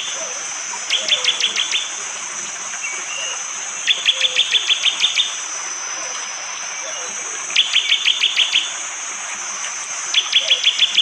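A prenjak jali (prinia) giving its 'tembakan' song: four bursts of rapid, sharp repeated notes, about ten a second for about a second each, spaced a few seconds apart. A steady high insect drone runs underneath.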